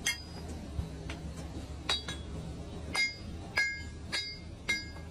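About six sharp metallic clinks, each with a short ringing tone, at irregular intervals over a low steady hum.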